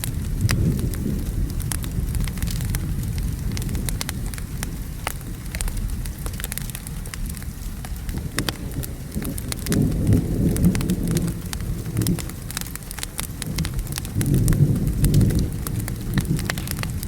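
Wood fire crackling with sharp pops, over steady rain and a low rumble of thunder. The thunder swells louder twice, about ten seconds in and again near the end.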